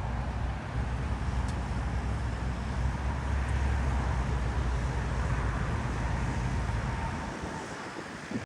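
A large vehicle's engine rumbling close by, with wind noise on the microphone; the rumble drops away about seven seconds in as the vehicle moves off.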